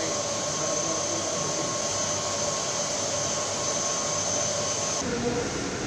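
Steady mechanical whirring noise with a thin high-pitched whine running through it; the sound changes abruptly about five seconds in, as at a cut to another shot.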